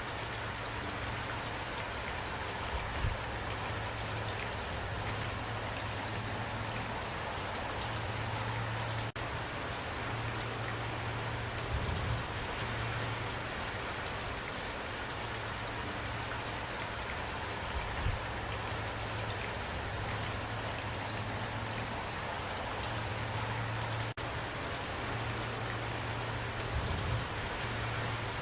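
Steady rain falling, an even hiss of drops on a surface, with about four brief louder low thumps and two momentary drop-outs.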